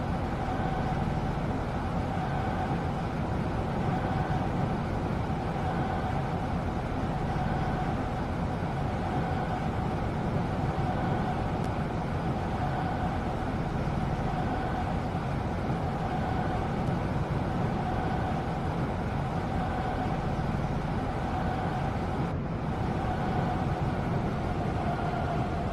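Seoul Metro Line 2 subway train running between stations, heard inside the carriage: a steady rumble of wheels on the track under an even motor whine, which dips slightly lower near the end.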